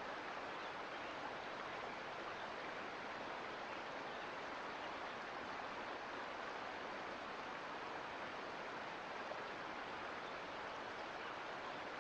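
Mountain creek running: a steady, even wash of flowing water.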